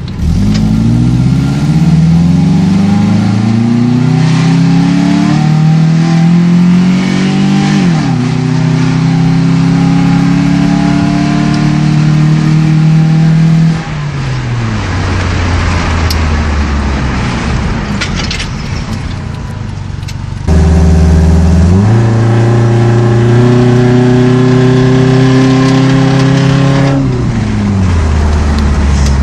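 Nissan 240SX's KA24DE 2.4-litre four-cylinder engine and exhaust under acceleration. The revs climb, drop sharply once about eight seconds in and climb again, then fall away. About two-thirds of the way through the sound jumps suddenly louder, holds steady revs, and falls again near the end.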